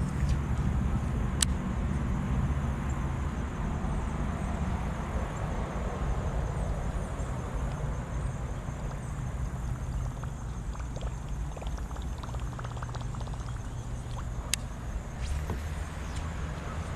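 Steady low hum of road traffic, with a few sharp clicks scattered through it.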